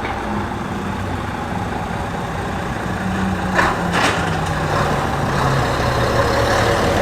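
Lorry engine running steadily at low revs, its pitch drifting slightly, with two short hisses about half a second apart a little past the middle.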